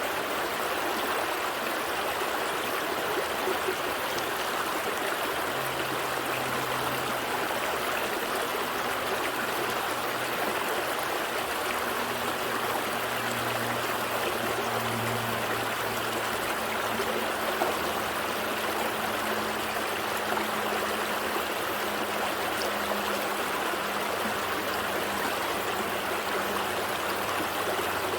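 Gentle stream running steadily over rocks, a continuous even rush and trickle of flowing water.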